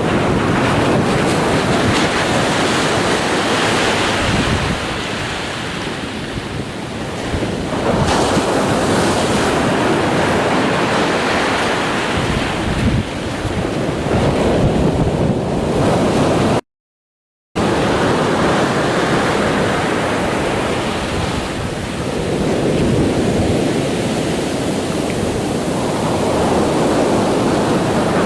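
Ocean surf: a continuous wash of breaking waves that swells and eases every few seconds. About two-thirds of the way through, the sound cuts out completely for about a second, then resumes.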